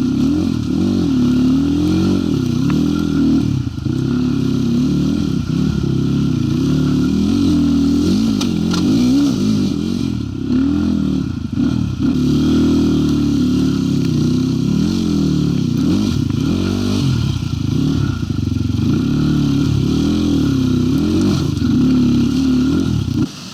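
Zuum NC300 enduro motorcycle's single-cylinder engine under load while being ridden, its revs rising and falling every second or two with the throttle. The sound cuts off abruptly near the end.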